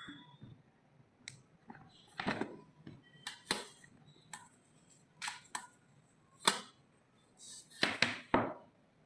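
Objects being handled on a surface: irregular clicks, knocks and short rustles, with the loudest cluster of knocks near the end.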